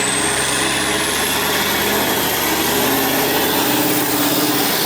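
Off-road trial truck's engine running steadily under load, with a high whine that rises over the first two seconds and then holds.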